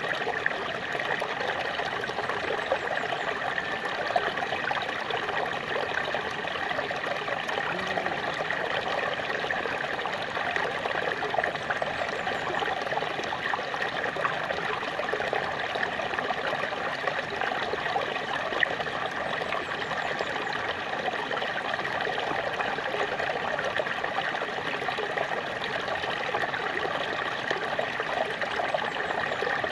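Small waterfall: water splashing and trickling steadily, with a dense patter of small splashes.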